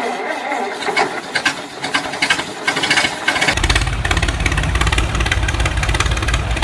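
Engine running, a low rapid pulsing that comes in about three and a half seconds in, after a stretch of clattering, scraping noise.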